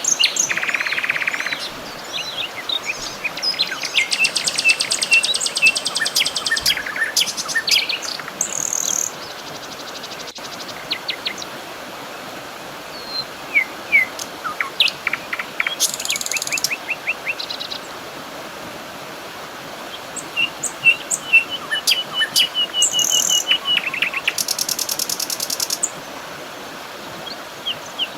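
Several birds singing and calling over a steady background hiss: rapid high trills, repeated short chirps and whistled notes, coming in bursts with short lulls between them.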